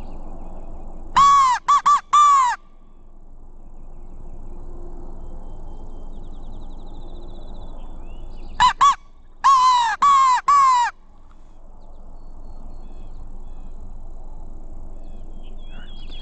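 Crow locator call blown loud and close in two series of harsh caws, about four starting a second in and about five more near the middle, sounded to make a gobbler shock-gobble and give away his position.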